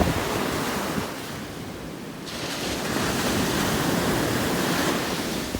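Ocean surf breaking and washing up the beach, a steady rush that swells about two seconds in and eases near the end, with wind buffeting the microphone.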